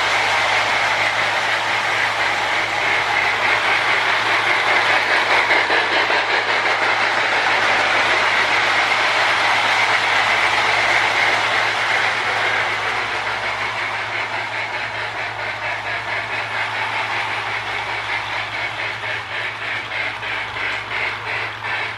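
Marx Sound-O-Power toy train tender making its electronic steam-locomotive chuffing as the train runs, an even rhythm of hissing chuffs that grows quieter over the second half. A steady low hum runs underneath.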